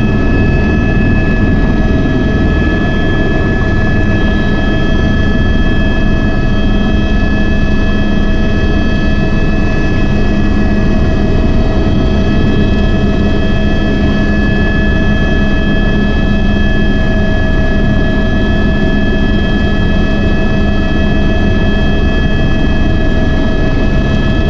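Helicopter running steadily: a loud, constant drone with a low hum and several high, unchanging whines over it.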